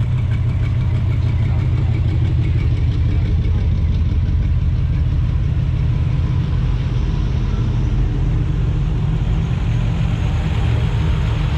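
A car engine running at low revs with a steady low rumble. A higher noise builds up over it near the end.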